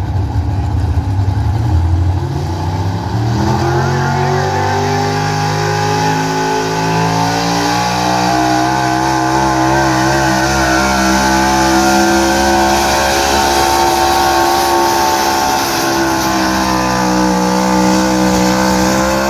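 Gas pickup truck engine under full load pulling a sled, its revs climbing over several seconds and then held high and steady. The note wavers briefly partway through, and the revs start to fall at the very end.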